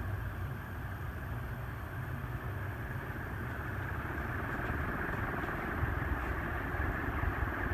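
Windward 48-inch four-blade industrial ceiling fan running steadily on high speed, a smooth, quiet rush of moving air with a low rumble.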